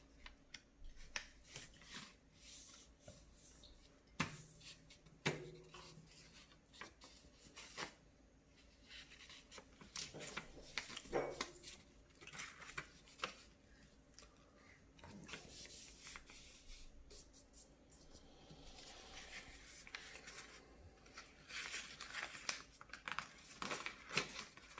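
A sheet of paper being handled, folded and creased by hand: intermittent rustling and crinkling with occasional sharp clicks.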